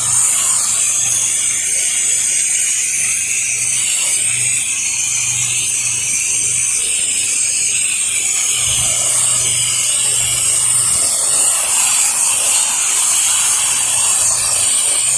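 Pressure washer spraying rinse water onto a house in a steady hiss, with the machine's engine running low underneath.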